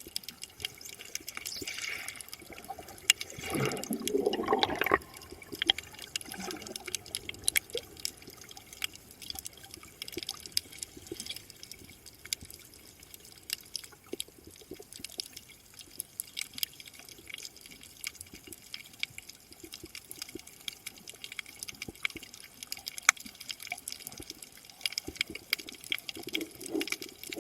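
Sea water around a free diver's camera: a steady crackle of small clicks, with a louder bubbling rush about three and a half seconds in that lasts a second or so.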